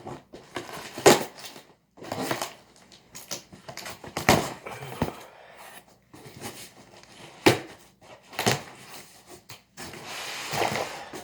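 Cardboard box being unpacked by hand: packing tape tearing and cardboard and paper rustling and crinkling in irregular bursts, with a few sharp knocks.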